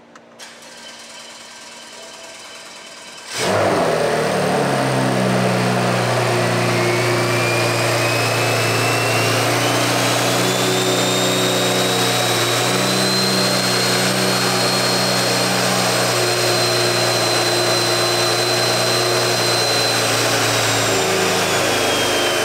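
BMW N55 3.0-litre inline-six, fitted with a top-mount single turbo, turning over and then firing about three seconds in on its first start after the turbo install, settling into a steady idle. A high whistle climbs in pitch over several seconds, holds, then dips slightly near the end.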